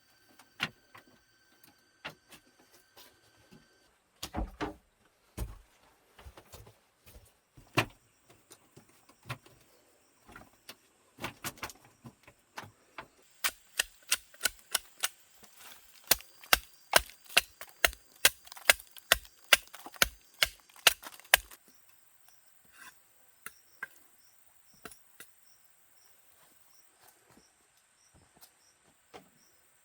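Repeated sharp knocks, scattered at first, then coming quickly at about three a second for some eight seconds before they stop. The rhythm is that of a tool striking wood.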